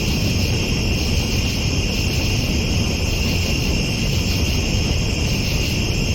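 Steady high chorus of night insects, crickets trilling without a break, over a constant low rumble.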